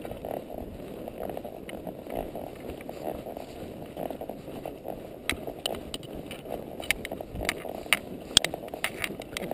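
Gusty wind rumbling on the microphone during a horseback ride, with sharp clicks and ticks that come more often from about five seconds in.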